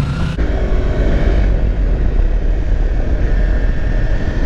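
Loud, steady low rumble of vehicle engine noise, which grows suddenly louder about half a second in.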